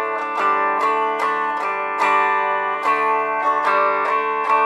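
Electric guitar, a Fender Player Stratocaster, played through a Fender Mustang GTX100 amp on its telephone EQ preset: a run of picked notes, about two a second, each ringing into the next. The bass is cut away, so it sounds like playing over a telephone.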